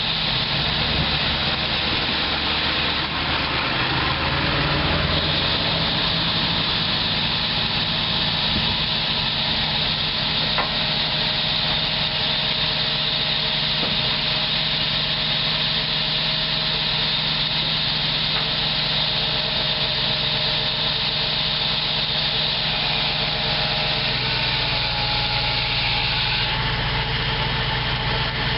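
Dump truck engine running steadily, its pitch shifting slightly about four seconds in and again near the end.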